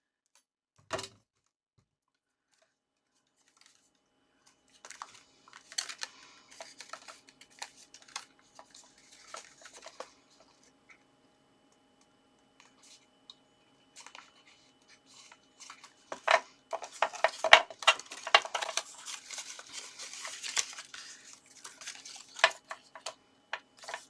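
Card stock being handled and folded by hand: a single sharp click about a second in, then irregular rustling and crinkling with light taps, busiest about two-thirds of the way through.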